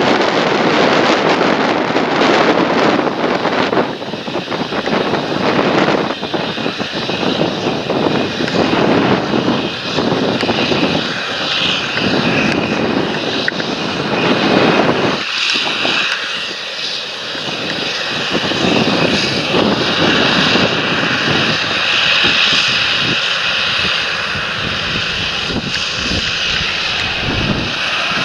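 Large John Deere tractor's diesel engine running steadily while working the field.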